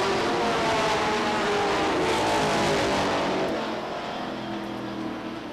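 A pack of late model Sportsman stock cars racing on a short oval track, their engines running at full throttle. The sound fades after about three and a half seconds as the pack moves away.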